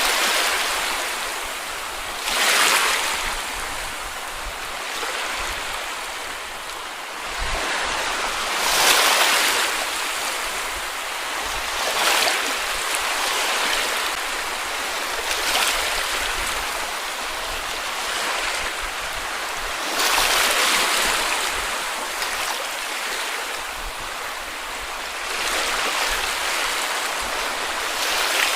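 Small sea waves breaking and washing on a beach, a wave surging up every few seconds over a continuous wash of water.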